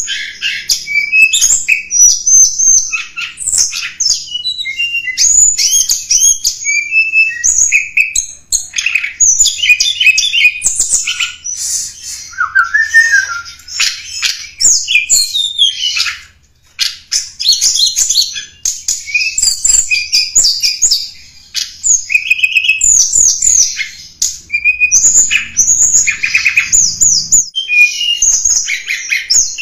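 Tledekan gunung singing, played as a lure call for wild birds: a dense, loud run of fast high chirps, short whistles and rising and falling trills, with brief pauses about halfway through and near the end.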